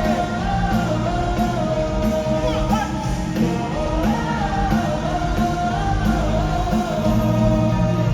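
Live rock band music with electric guitar, bass and drums, and a sung or played melody line over it.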